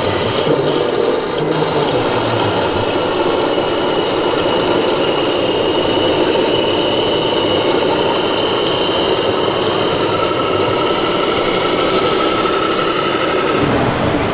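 Scale radio-controlled construction machines running: a steady mechanical din with a thin, high motor whine. The low rumble cuts off suddenly shortly before the end.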